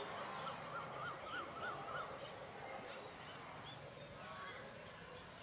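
A bird calling a quick run of about five short rising-and-falling notes about a second in, followed by fainter high chirps.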